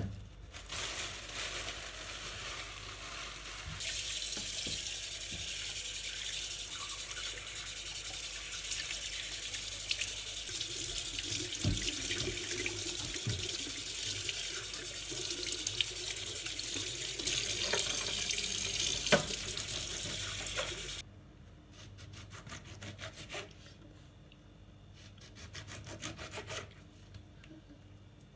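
Kitchen tap running into a sink, the flow turned up about four seconds in and shut off sharply about 21 seconds in. After that, light clicks and handling sounds.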